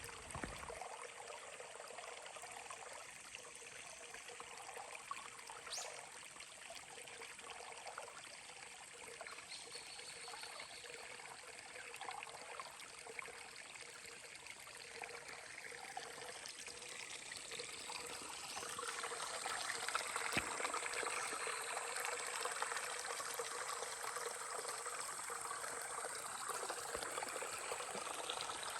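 A mountain stream running, a steady rush of water that grows louder about two-thirds of the way in.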